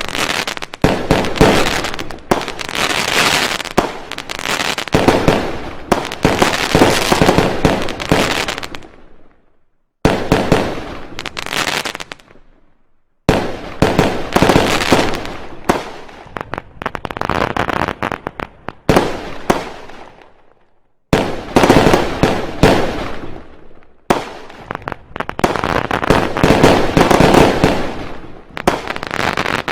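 Fireworks going off: long runs of rapid, loud bangs and crackle, each run lasting several seconds. The runs break off suddenly into short silences three times, about a third, two fifths and two thirds of the way through.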